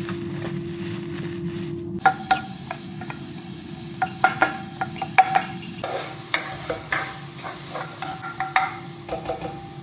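Food sizzling in a pan while a utensil stirs it. Repeated sharp clinks and scrapes against the pan ring briefly, starting about two seconds in.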